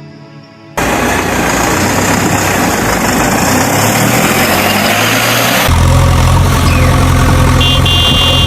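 Loud heavy vehicle engine starts suddenly about a second in, running rough and noisy, then settles into a steady low idle about five seconds in. A short high beeping comes in near the end.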